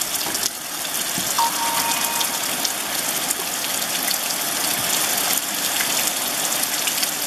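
Heavy rain falling steadily, a dense patter of drops on puddles and wet ground.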